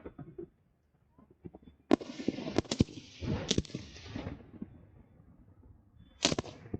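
Fireworks shells bursting overhead: a quick cluster of about five sharp bangs starting about two seconds in, trailing off over the next second, then another pair of loud bangs near the end.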